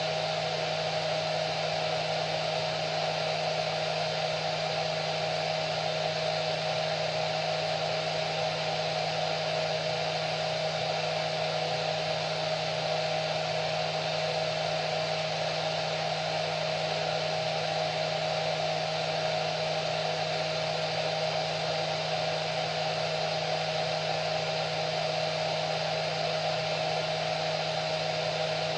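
Hair dryer running continuously: a steady rushing of air with an unchanging motor hum and a clear whine.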